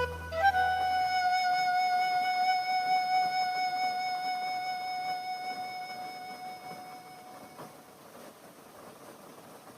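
Closing music of a karaoke backing track: one last long held note on a melody instrument, wavering slightly, fading away about eight seconds in and leaving only a faint hiss.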